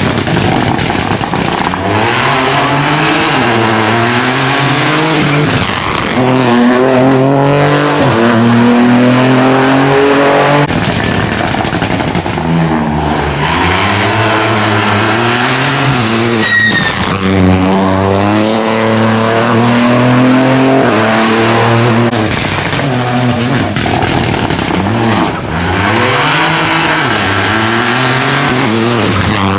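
Rally car engines, mostly Rally 4 class, at full throttle on a special stage: the revs climb and drop again and again with gear changes and lifts for corners. There is a short high-pitched tone about two thirds of the way through.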